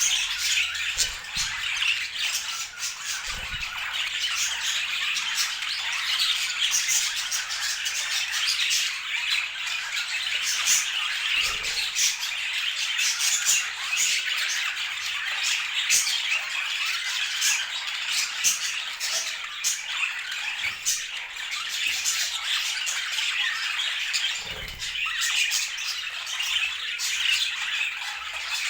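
Budgerigars chattering without pause, a dense mix of warbles and short sharp squawks.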